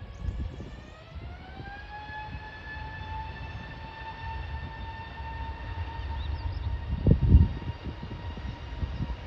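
Airbus A320neo's jet engines spooling up to takeoff thrust: a whine rises in pitch over the first two seconds, then holds steady over a low rumble. A brief low rumbling gust comes about seven seconds in.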